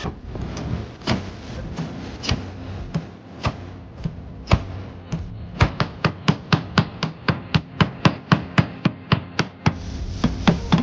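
Hammer blows on the vehicle's body metal during crash repair: scattered strikes at first, then a rapid steady run of about three or four strikes a second from about halfway in.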